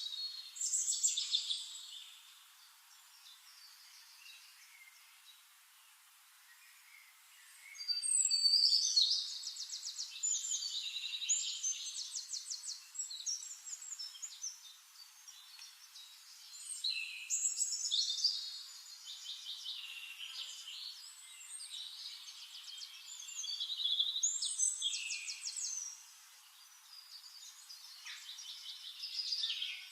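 Songbirds singing in bouts of whistled phrases and fast trills, with quieter spells of faint background hiss between the bouts.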